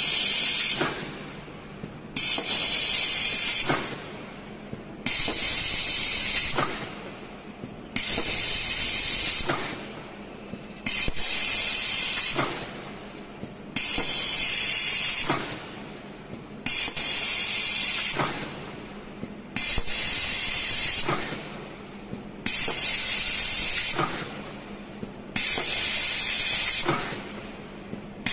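Automatic CNC stud welding machine cycling: a burst of compressed-air hiss about every two seconds, each lasting a second or so, with a sharp click in each cycle.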